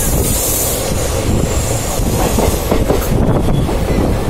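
Shramjeevi Express passenger train running at speed, heard from an open coach door: a steady rumble of wheels on the rails with clickety-clack over the rail joints.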